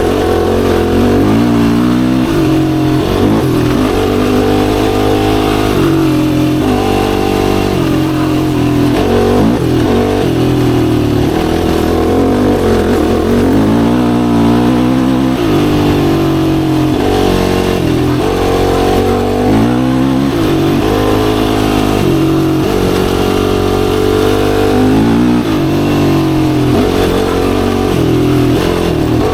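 Yamaha YFZ450R sport quad's single-cylinder four-stroke engine under way, revving up and easing off over and over as the throttle is worked.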